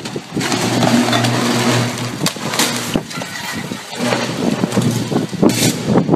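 Downed power line arcing during a fault: loud crackling, hissing noise over a steady low electrical hum, breaking off briefly about four seconds in and flaring again near the end.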